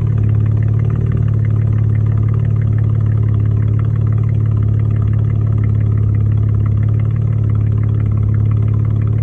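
Chevrolet Camaro V6 with straight pipes in place of the original mufflers, idling steadily with a low, even exhaust drone.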